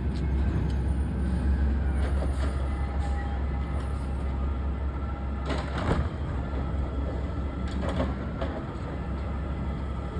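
Garbage truck's diesel engine running with a steady low rumble, with a couple of sharp knocks about six and eight seconds in.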